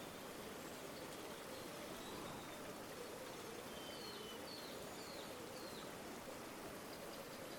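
River water flowing steadily, with four or five short, high bird chirps around the middle.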